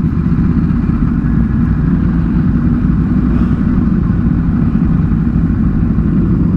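Sport motorcycle engines idling steadily, a dense low rumble with no revving.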